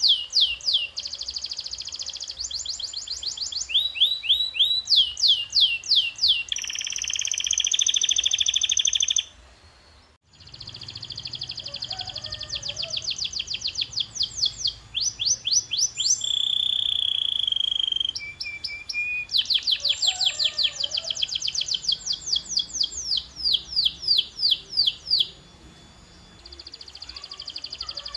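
Canary singing: fast tours of repeated down-sweeping notes alternating with held rolling trills, changing every second or two, with a brief pause about ten seconds in.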